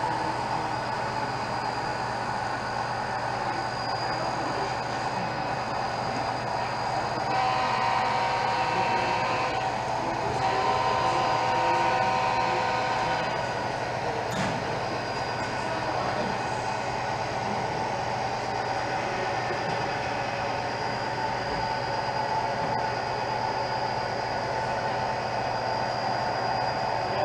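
HO scale model train running on a layout, a steady hum with sustained tones. A horn-like chord sounds in two long blasts, about 7 and 10 seconds in.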